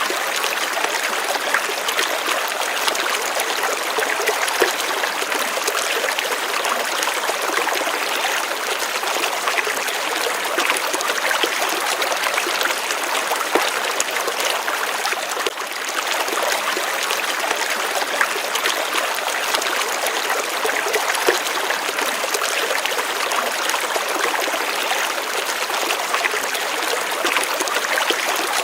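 Water running and trickling in a steady stream, an even splashing rush with fine rapid bubbling detail.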